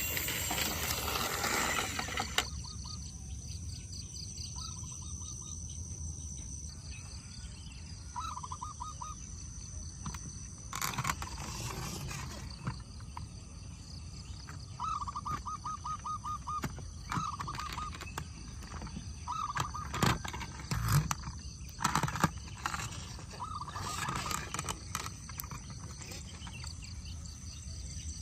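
Outdoor ambience: a bird repeats short, rapid trilled calls over a steady high buzz of insects. A few sharp knocks come around a third of the way in and again about two-thirds through.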